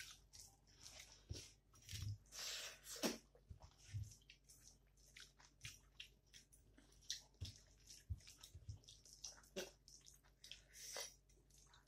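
Faint wet chewing and lip smacks, with the squish of fingers mixing rice and dal on a plate, in many short, irregular smacks.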